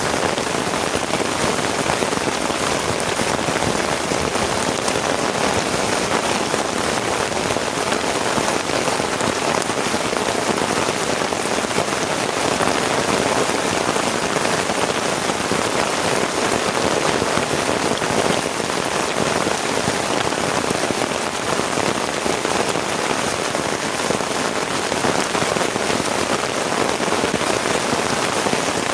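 Heavy rain falling steadily, a dense, unbroken spray of drops striking a surface.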